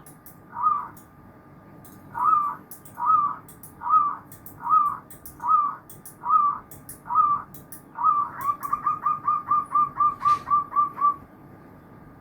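Zebra dove (perkutut) cooing: a steady series of rolling coos about one a second, then, about eight seconds in, a fast run of short staccato notes for about three seconds.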